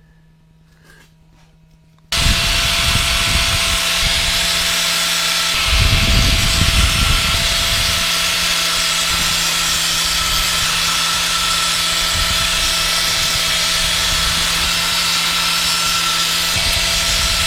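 An electric power tool starts about two seconds in and runs steadily with a constant whine, getting rougher and louder for a moment a few seconds later as work is pressed against it.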